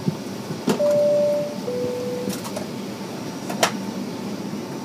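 Airliner cabin chime: two steady electronic tones, high then low, each under a second, over the steady hum of the cabin air and engines. A few sharp clicks come before and after the chime.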